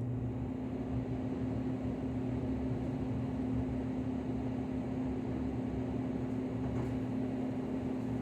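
Trane air handler's blower fan running after kicking on for cooling: a steady low hum with the rush of moving air.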